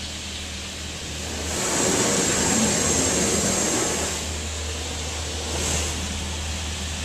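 Laserwash 4000 touchless car wash's high-pressure rinse jets spraying water against the car, heard from inside the car. The spray grows loud about one and a half seconds in as the jets pass close, then eases off about four seconds in, over a steady low hum.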